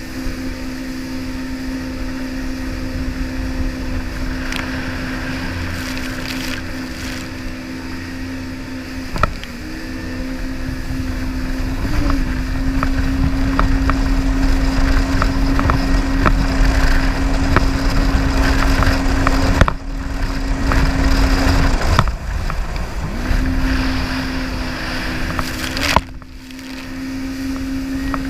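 Jet ski engine running at a steady high whine, easing off and picking back up about nine seconds in and again past twenty seconds, over a low rumble, with a few sharp knocks.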